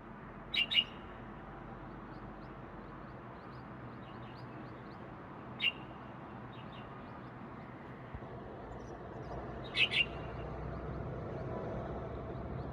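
Small bird chirping: a quick pair of sharp chirps near the start, a single chirp in the middle and another pair near the end, with fainter chirps between. A steady low background rumble runs under it and grows louder in the last few seconds.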